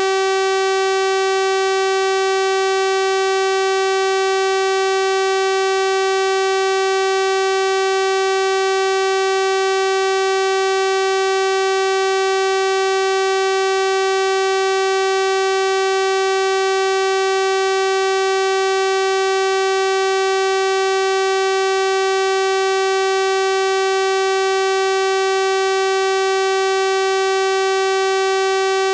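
Continuous synthesized 384 Hz sawtooth-wave tone, a steady buzzy drone with a rich stack of overtones and no change in pitch or loudness.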